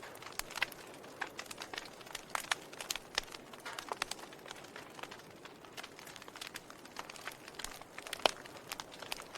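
Wood fire in a fireplace crackling: irregular sharp pops and snaps over a soft steady hiss, with one louder pop near the end.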